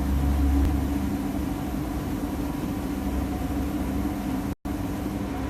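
Steady hum of a DPF and catalytic converter cleaning machine running, its pump pushing water through a clogged filter, with a heavier low rumble in the first second. The sound cuts out for an instant near the end.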